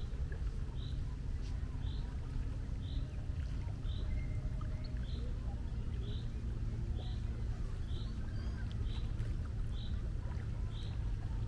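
Steady low rumble of sea and wind, with a small bird repeating a short, high call about once a second.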